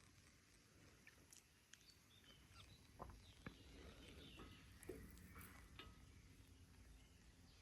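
Near silence: a few faint, scattered clicks and taps over low background noise.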